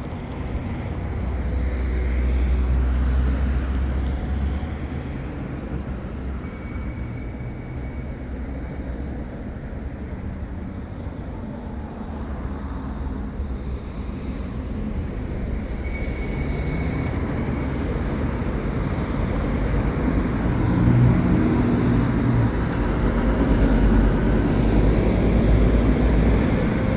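Road traffic passing: cars, vans and trucks going by in a steady stream. A heavier vehicle's engine grows louder about two-thirds of the way through and stays loud near the end.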